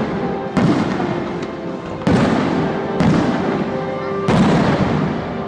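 Fireworks shells bursting about once every second or so, four sharp booms each trailing off into crackle, over music playing steadily underneath.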